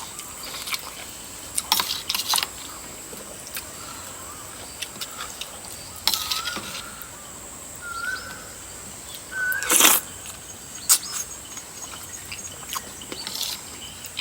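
Close-up eating sounds: chewing and slurping of curry-soaked rice noodles and chicken feet, with scattered sharp clicks and a louder noisy burst about ten seconds in.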